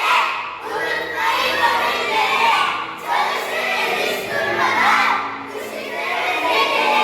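A group of children's voices shouting out together in unison, in loud phrases about a second long, with a hall's echo.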